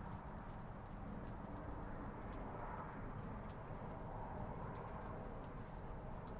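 Steady rain falling, with many small scattered drips ticking over an even hiss, and a low steady hum underneath.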